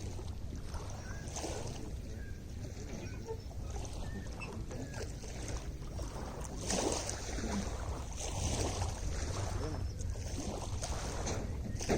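Lake water lapping and splashing in small irregular surges, over a steady low rumble of wind on the microphone.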